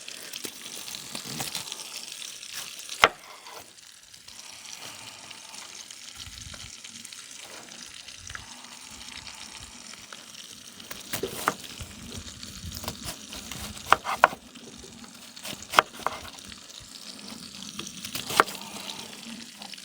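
Bacon pieces sizzling steadily as they brown in a pan, with a few scattered sharp clicks and knocks of kitchen utensils.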